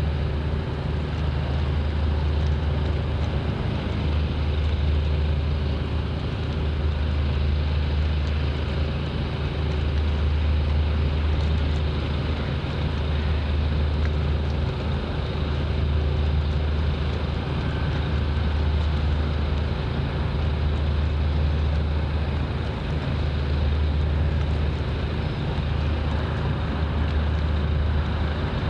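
A steady low engine drone that swells and eases slightly every few seconds.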